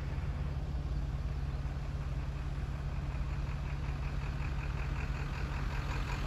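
Car engine idling steadily, a low even hum with no change in pitch.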